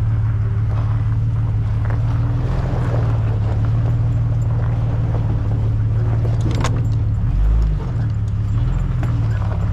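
Car engine running steadily at low speed over a rough dirt track, a continuous low drone, with a sharp click about two-thirds through and a low thump from the car jolting over a bump shortly after.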